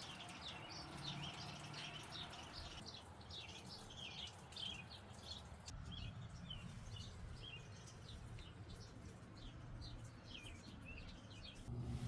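A small bird chirping over and over, short high chirps several a second, thinning out near the end, over a faint background hiss.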